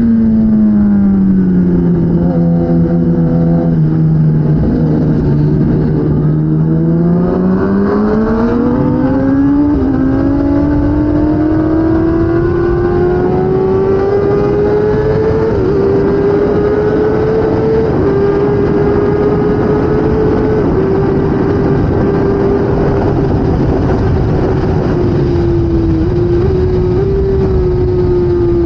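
2016 Kawasaki ZX-10R inline-four superbike engine at racing speed: the revs fall over the first few seconds as the bike slows, hold low briefly, then climb for several seconds with a few small steps at the gear changes and stay high. A steady rushing noise runs underneath.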